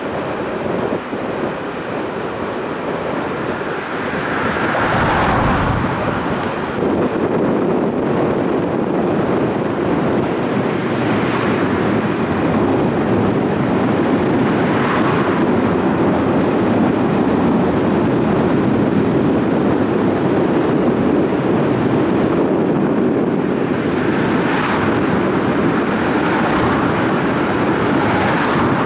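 Steady rushing roar of wind on the microphone and water, with a swell of hiss about four times as vehicles pass.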